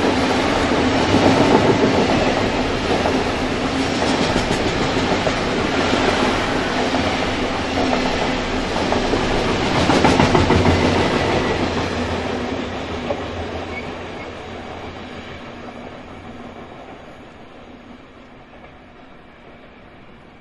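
Coal freight train of wagons rolling past, its wheels running over the rails, loudest about a second in and again about ten seconds in. It then fades away steadily over the last several seconds as the train recedes.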